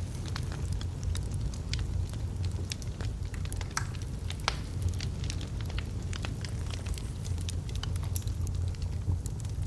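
Logs burning in a fireplace: irregular crackling with frequent sharp pops, a few louder ones near the middle, over a steady low rumble of the fire.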